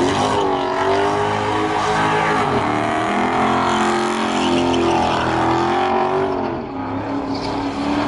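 Car engines revving repeatedly, their pitch rising and falling again and again.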